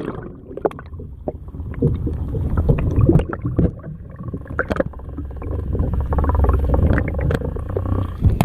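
Water sloshing and splashing around a kayak as it is paddled, with scattered knocks against the hull and a low rumble that swells and fades.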